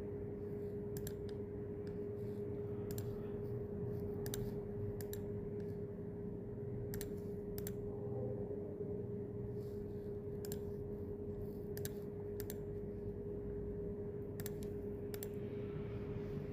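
Scattered sharp clicks at a computer, about one a second at irregular spacing, over a steady electrical hum.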